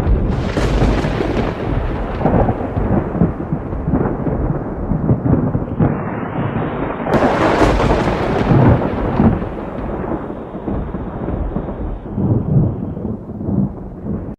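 Thunder: two cracks, about half a second in and about seven seconds in, each followed by a long rumble that slowly fades.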